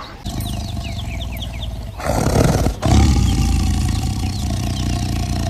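A large animal roaring, with the loudest burst about two seconds in, over a steady low hum; a few short high chirps sound in the first two seconds.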